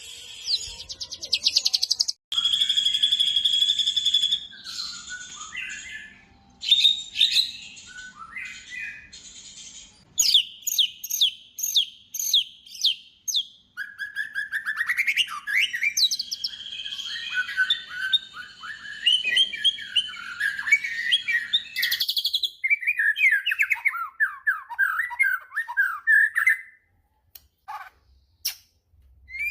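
White-rumped shama (murai batu) singing a long, varied song: clear whistles, fast runs of repeated notes and chattering phrases, with abrupt changes between passages and a couple of short pauses near the end.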